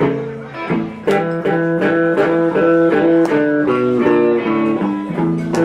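Blues guitar playing a repeating riff of plucked notes between sung lines of a Chicago blues song.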